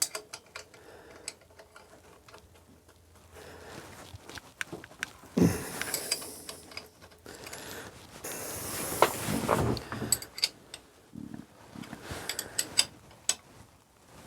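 Hand tools and metal engine parts clinking and knocking in scattered clicks, with longer scraping rustles about five seconds and nine seconds in.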